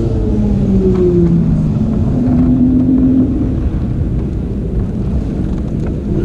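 Motorcycle engine, its pitch falling over the first second or so as it slows, holding steady briefly, then fading out under a low rumble of wind on the microphone.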